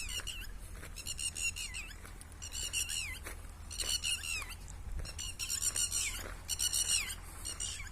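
A bird calling in short, high, rapid phrases about once a second, each phrase ending in a downward slur.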